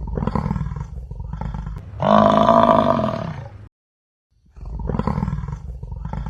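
Bison bellowing: a low, rough rumbling grunt leads into a louder, longer bellow. After a short pause, the rumbling grunt starts again near the end.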